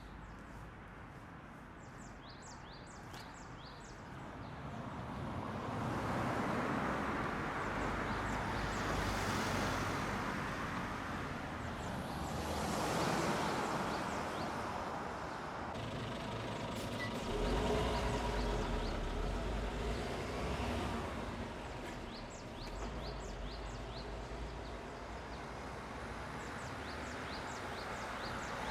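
Motor vehicles passing, their rumble swelling and fading several times, with a steadier engine hum a little past the middle; birds chirp near the start and again near the end.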